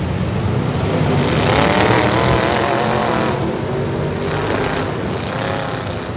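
Several demolition derby car engines revving together, loud and continuous, their pitch rising and falling as the drivers work the throttle.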